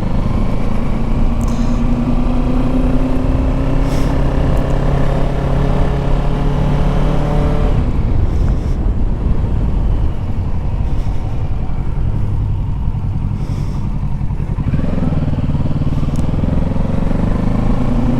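Kawasaki Ninja 650's parallel-twin engine running under way, its pitch rising slowly as it pulls. About eight seconds in the engine note drops away to a lower, rougher sound, then picks up again with rising pitch near the end.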